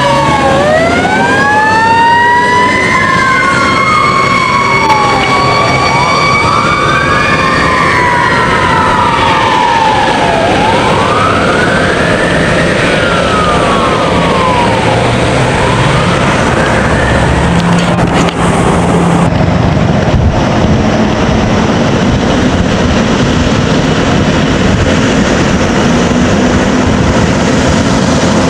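Fire apparatus sirens sounding while responding: a long held high siren tone and a siren rising and falling about every two and a half seconds, fading out after about 17 seconds and leaving truck engine and road noise.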